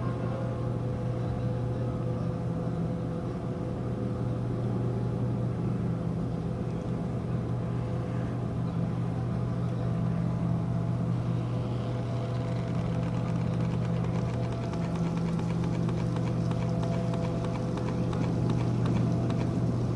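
Cruise ship's engines and machinery droning steadily, a constant low hum with a fainter steady tone above it.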